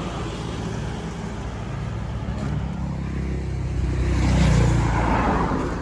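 A motor vehicle's engine running on the nearby road, growing louder and peaking about four and a half seconds in as it passes, then fading.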